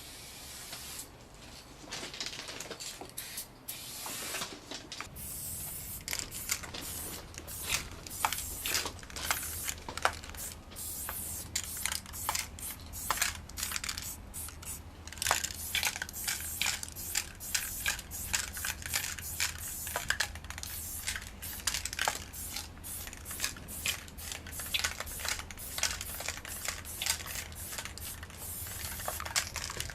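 Aerosol spray paint can sprayed in many short hissing bursts, one after another, with short gaps between.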